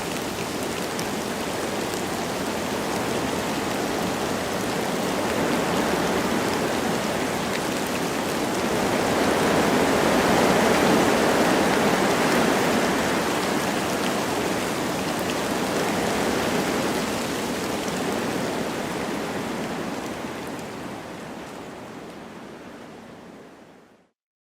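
Wind blowing through forest trees with light rain: a steady rushing that swells about halfway through, then fades out to silence near the end.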